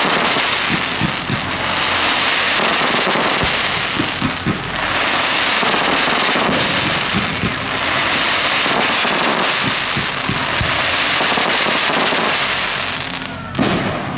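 Fireworks going off without a break: dense crackling with many overlapping pops and bangs, and one sharper bang near the end.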